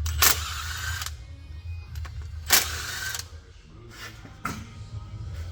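Two sudden hissing blasts, each about a second long, one just after the start and one about two and a half seconds in, with a fainter hiss near the end, over a steady low hum.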